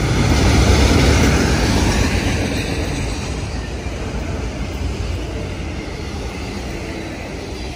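Train rolling past, a rumble and rushing noise that peaks about a second in and then fades steadily as the train moves away.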